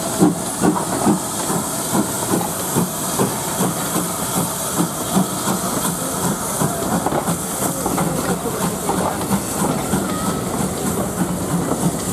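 Steam locomotive working through the station: regular exhaust beats, about two a second at first, then quicker and less distinct, over a steady hiss of steam, with rolling stock clattering on the rails.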